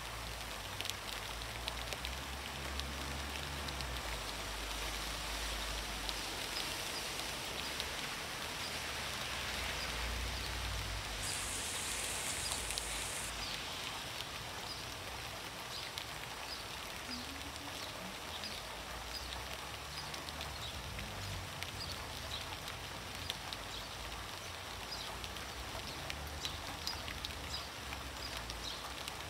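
Steady rain falling into a puddle: an even hiss with many separate small drop ticks on the water throughout.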